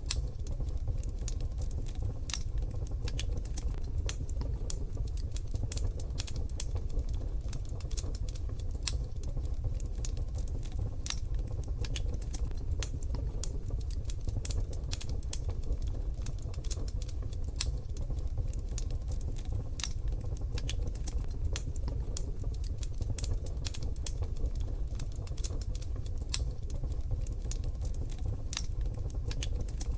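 Wood fire crackling in a wood-burning stove: many irregular sharp snaps and pops over a steady low rumble.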